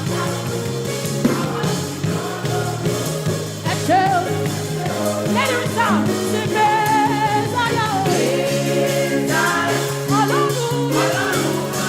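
Live gospel praise music: lead and choir voices singing over a band with a steady drum beat and sustained low notes.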